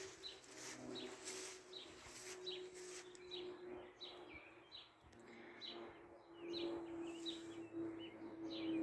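Small birds chirping, short repeated chirps about two or three a second, faint, over a low steady hum.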